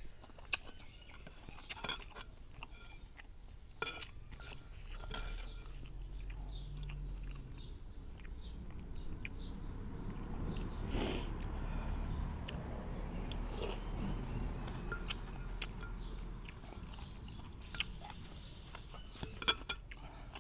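Close-up chewing and wet mouth clicks of someone eating noodle soup with pork. A low steady hum sits underneath from about five seconds in until about sixteen seconds, and there is a brief louder noise about eleven seconds in.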